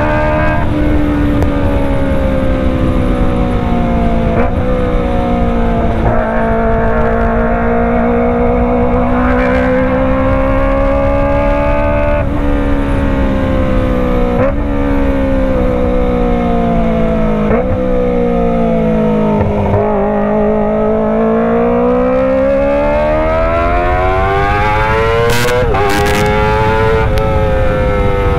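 Kawasaki ZX-25R 250 cc inline-four engine running through a Racefit Slash full-system exhaust while riding. The engine note slowly sinks and climbs with the throttle, with a brief catch in the pitch every few seconds as the gears change.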